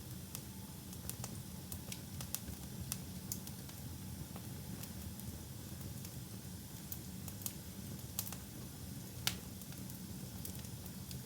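Wood fire burning in a fireplace, crackling with scattered sharp pops over a steady low rumble of the flames. One louder pop comes near the end.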